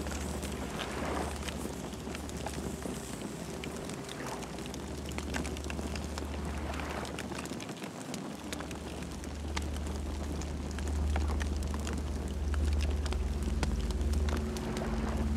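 Campfire burning, with many small sharp crackles and pops over a low steady rumble.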